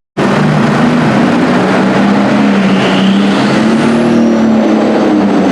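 Super stock pulling tractor's turbocharged diesel engine running loud and steady at high revs under load, with a turbo whine that rises in pitch about three seconds in.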